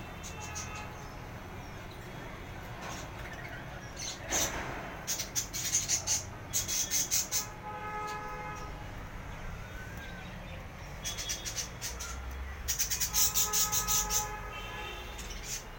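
Budgies chirping in two clusters of rapid, raspy repeated calls over a steady low hum, with a single knock about four seconds in.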